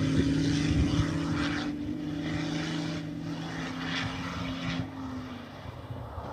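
Rally car's engine heard at a distance, a steady drone as it drives away, fading until it dies out about five seconds in.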